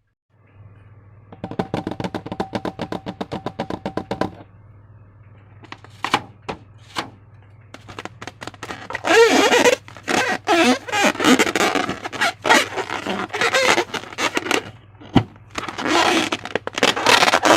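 Slime being squished and worked by hand, with wet crackling and popping of small air pockets that grow dense in the second half. It is preceded by a run of rapid, even clicks, and a steady low hum runs underneath.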